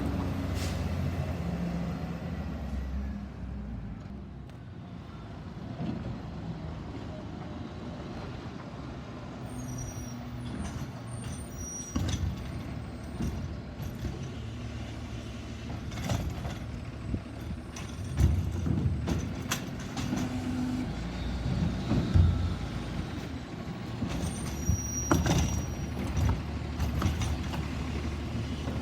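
Autocar Xpeditor garbage truck running, its engine humming steadily, with short air hisses and several sharp knocks and bangs scattered through.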